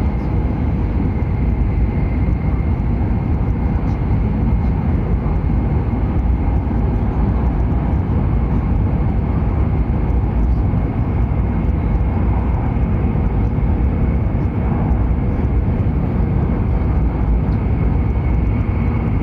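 Hokuriku Shinkansen train running steadily: a constant deep rumble and rush of running noise with a thin, steady whine over it.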